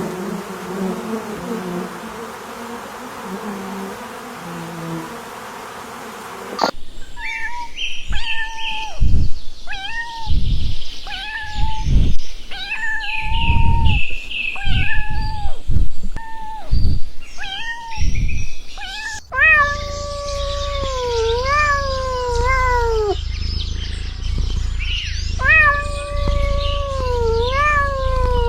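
Cat meowing: a run of about a dozen short meows, then from about two-thirds of the way in, long drawn-out meows that fall in pitch. Before the cat comes in, about seven seconds of a steady noisy hum that ends in a sudden cut.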